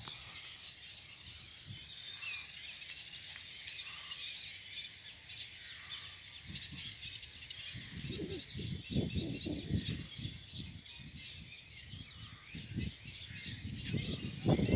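A flock of rose-ringed parakeets chattering and screeching continuously, many short calls overlapping. From about six seconds in, low rumbling bursts come and go beneath the calls, strongest near the end.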